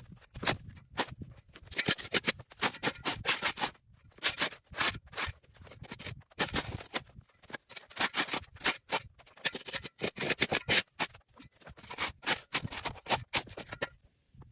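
Rapid, irregular scraping or brushing strokes in quick runs with short pauses, stopping near the end.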